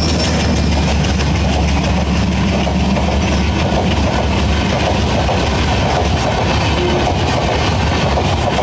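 Passenger coaches of a diesel-hauled express train running past at speed close by: a loud, steady rumble and rattle of steel wheels on the rails. The locomotive's steady engine tone fades over the first couple of seconds.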